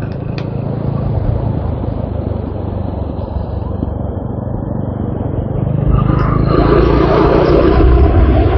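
TVS Apache RTR 200 4V's single-cylinder engine heard from the rider's seat, running quieter off the throttle for several seconds. About six seconds in it is opened up again and gets clearly louder.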